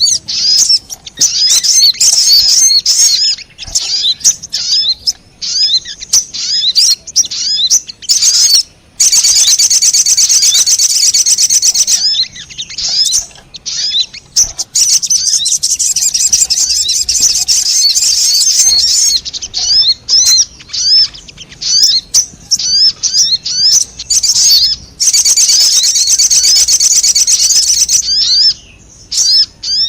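Crimson sunbird (sogon) calls on a lure recording: rapid, high-pitched chirps and twitters, breaking three times into a dense, continuous trilling chatter, about a third of the way in, around the middle and near the end.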